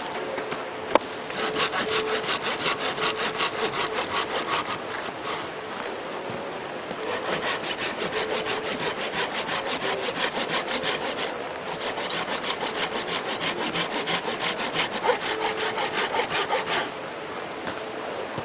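Hand saw cutting through wood in quick back-and-forth strokes, in three bouts with short pauses between them, as firewood is cut for a campfire.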